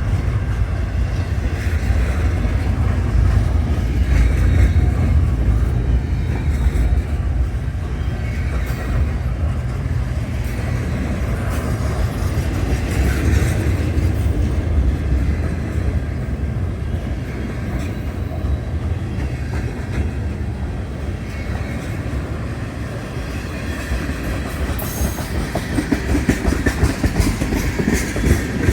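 A freight train rolling past, its cars rumbling steadily with wheels clacking over the rail joints; the clacking gets louder in the last few seconds.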